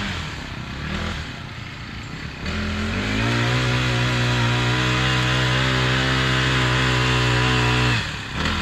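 An engine running at steady high speed. Its pitch sags and then climbs back several times, about a second in, at about two and a half seconds and again near the end, as if it bogs under load and recovers.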